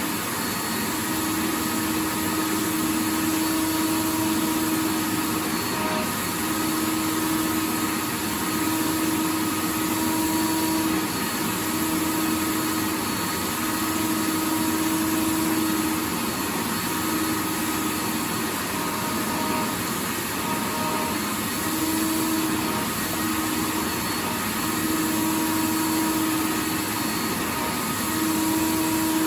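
Vacuum cleaner running continuously: a steady rush of air with a motor hum that fades in and out every few seconds.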